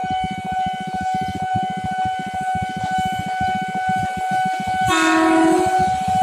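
KRL electric commuter train running by with a fast, rumbling rattle under a steady high tone; about five seconds in, the train gives a short horn blast lasting about a second.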